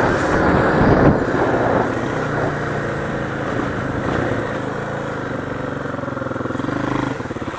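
Motorcycle engine running, louder for the first second or two and then settling to a steady lower note, with an even pulse like an idle near the end.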